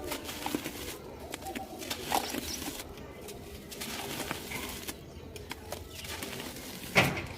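Dry, dusty material crumbling and crunching in irregular small crackles, with one louder sharp crunch near the end. Pigeons coo faintly in the background.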